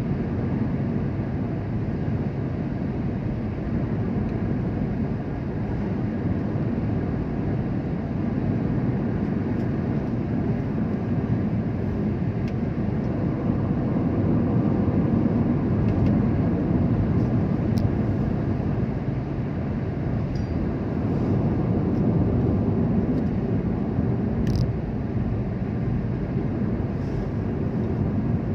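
Steady low rumble of a motor vehicle driving, engine and road noise, rising and falling a little, with a few faint clicks in the second half.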